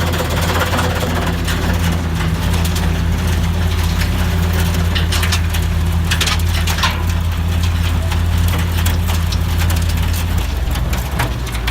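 Engine of a snow blower with its own separate engine running steadily, with brief rushing noises a few seconds in; the hum shifts and eases slightly near the end.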